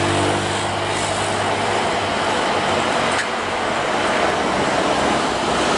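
Steady roar of road traffic mixed with the engines of an airliner coming in to land.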